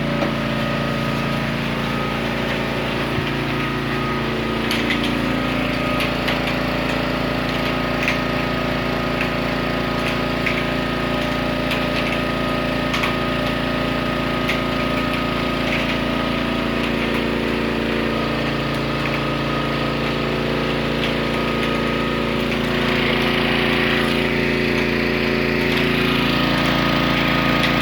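Small 1000-watt Honda portable generator engine running steadily, with a few faint ticks over it, a little louder in the last few seconds.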